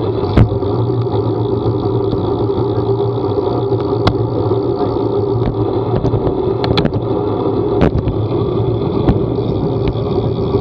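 Steady drone of a moving vehicle, engine and road noise held at an even level, with a few sharp ticks scattered through.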